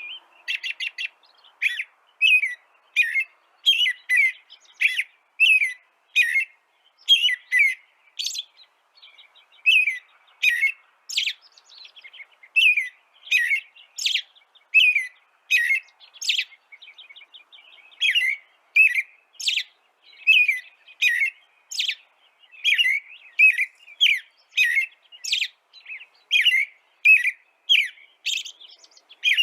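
Songbird chirping over and over in short, sharp notes, about two a second, with a brief softer trill and a short pause partway through.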